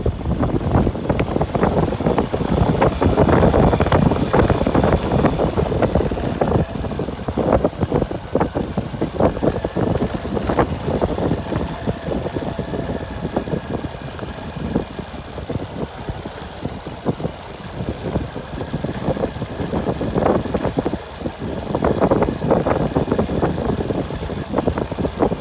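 Motor vehicle engine running while driving over a rough dirt track, with frequent knocks and rattles from the bumps and wind on the microphone.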